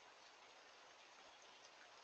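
Near silence: a faint, steady hiss of light rain with a few soft drip ticks, picked up by a CCTV camera's microphone.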